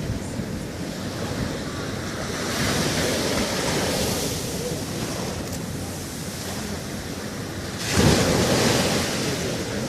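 Sea waves breaking on a beach: steady surf that swells a little about a third of the way in, then a louder wave crashes near the end and washes out.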